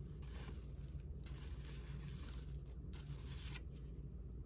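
Loose sheets of paper ephemera rustling and sliding against each other as they are handled, in a few soft swishes, over a steady low room hum.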